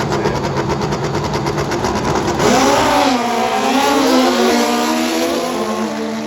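Drag-racing motorcycle engines running hard at the start line. About two seconds in they launch, and the engine pitch climbs and drops back several times with the gear changes as the bikes pull away, fading.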